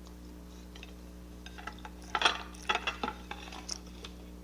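An eating utensil clinking and scraping against a plate a few times as food is scooped up, starting about two seconds in, over a low steady hum.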